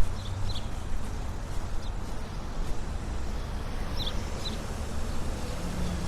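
City street ambience: a steady low traffic rumble, with a few short, high bird chirps near the start and again about four seconds in, and faint quick footsteps on the pavement.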